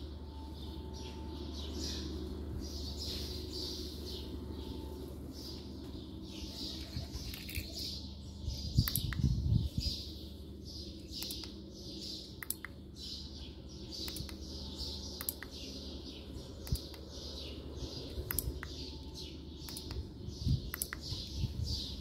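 Small birds chirping over and over, about two short falling chirps a second, above a steady low hum. Faint sharp clicks come here and there, and a brief burst of low thumping and rumbling comes about nine seconds in.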